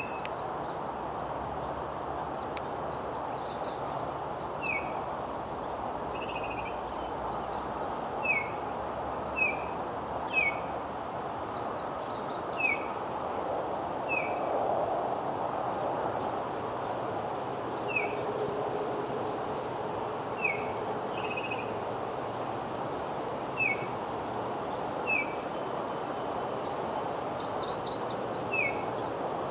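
Wild birds calling: a short chirp repeated every second or two, with a few quick high trilling phrases now and then, over a steady background hiss of outdoor noise.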